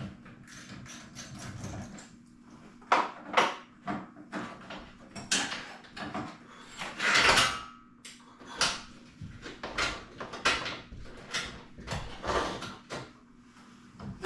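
Irregular knocks, clicks and clanks from hand work on garage door hardware, one louder clank about seven seconds in ringing briefly.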